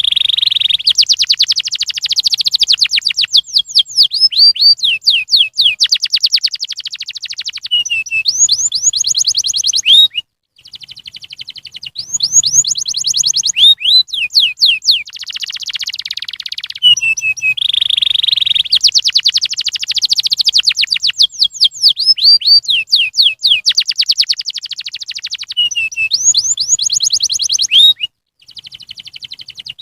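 Domestic canary singing: long rapid trills mixed with quick rising and falling whistled notes, broken by two short pauses, about ten seconds in and near the end. The same run of phrases comes round twice, as a looped song recording does.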